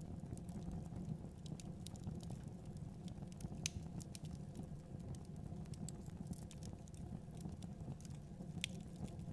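Wood fire crackling in a fireplace: irregular sharp pops and snaps, a couple of them louder, over a low steady rumble of the flames.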